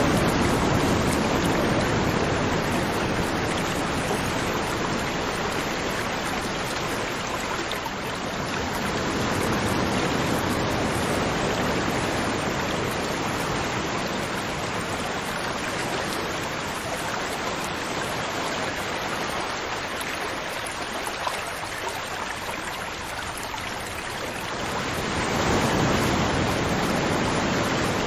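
River water flowing: a steady rushing that swells and eases slowly, fuller about ten seconds in and again near the end.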